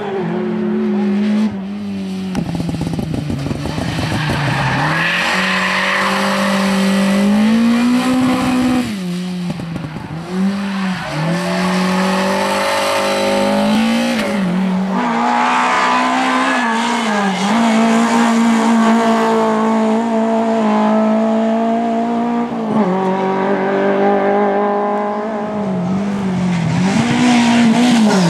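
Lada rally car engines revving hard through corners, pitch swooping up and down again and again as the drivers lift and get back on the throttle, with a few sudden jumps in sound.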